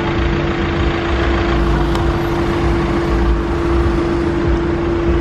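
A vehicle engine running steadily, with a constant hum held throughout, over the noise of road traffic.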